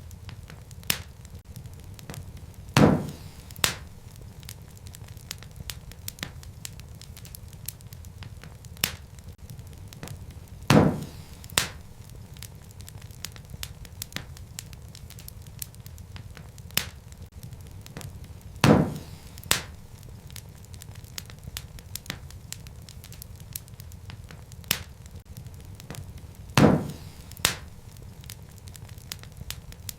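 Wood fire burning in a fireplace: a steady low rush of flames with frequent small crackles. Four louder pops of burning wood come about eight seconds apart.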